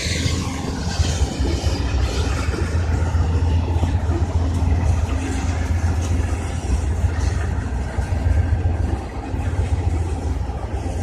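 Diesel passenger locomotives running at the station, a steady low drone of engine noise.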